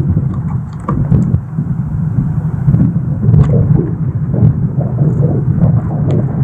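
Car driving, a steady low rumble of road and wind noise heard from inside the cabin.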